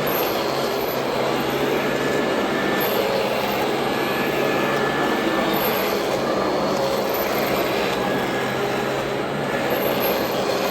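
Royal Model 2008 upright vacuum cleaner running steadily, its motor giving a continuous drone with a low hum under the rush of air.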